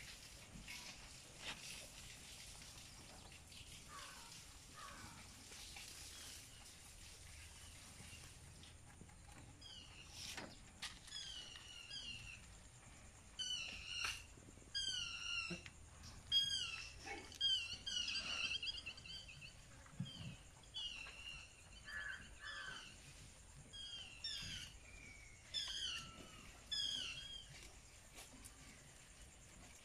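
Birds chirping: many short, high, falling notes in quick groups, starting about ten seconds in over a faint background hiss.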